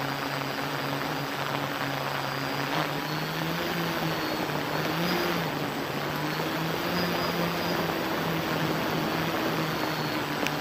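Hexacopter's electric motors and propellers humming steadily in flight over a rushing hiss, the pitch wavering a little up and down as the motor speeds adjust.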